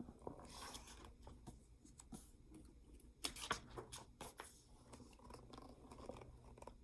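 Faint rustling and a few light taps of paper, a book's pages being handled and turned.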